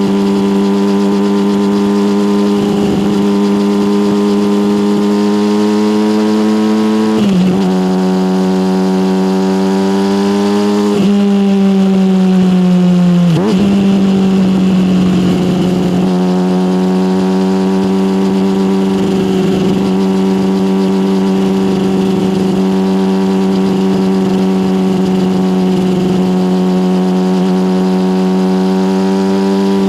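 Yamaha motorcycle engine through an SC Project aftermarket exhaust, running steadily while riding. About a third of the way in, the pitch steps down and then climbs as the bike accelerates. It then falls away as the rider eases off, and settles into a steady cruise.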